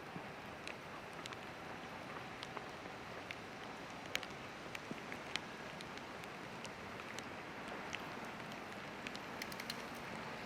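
Steady rain falling, with scattered sharp drops tapping close by at irregular moments.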